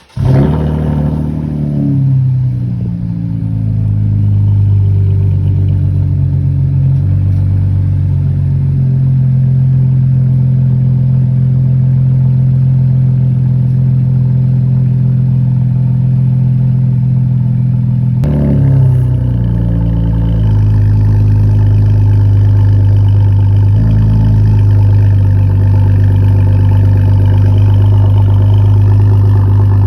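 Chevrolet Camaro with a muffler delete and aftermarket intake cold-starting. The engine catches at once with a flare of revs, then settles into a steady, loud high idle. About eighteen seconds in the sound changes abruptly and the revs fall and settle again before the idle carries on steady.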